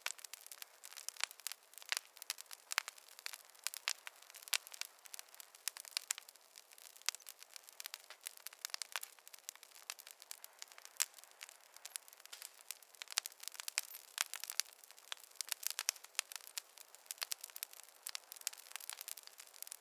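Campfire wood burning, crackling with many irregular sharp pops and snaps, several a second, over a faint hiss.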